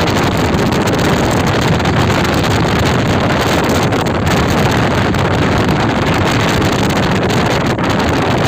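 Speedboat under way, with its engine and the rushing water buried under a loud, steady blast of wind on the microphone.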